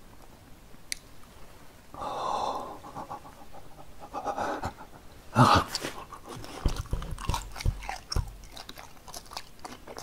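A man chewing sweet and sour pork with wet smacking and clicking mouth sounds. A sudden loud breath comes about halfway through, as he opens his mouth wide.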